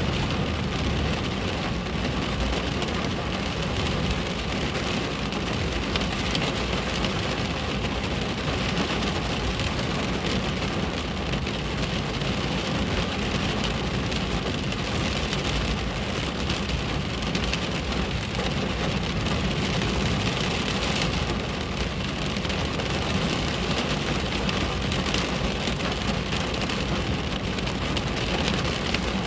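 Steady rain falling on a window, a dense even patter of drops.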